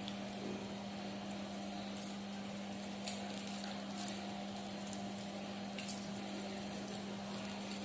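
Steady low hum under a constant hiss, with a few faint clicks scattered through.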